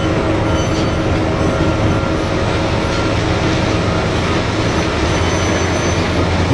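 Huge diesel-electric mining dump truck, the BelAZ 75710, running: a loud, steady engine drone with several steady whining tones over it.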